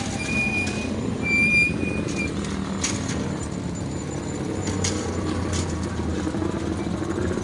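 Steady low rumble of a passing vehicle, with scattered clicks and a few short high-pitched tones about a second in.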